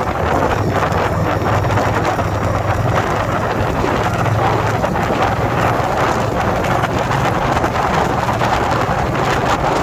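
2021 Indian Scout Bobber Twenty's V-twin engine running steadily while riding, under heavy wind buffeting on the microphone.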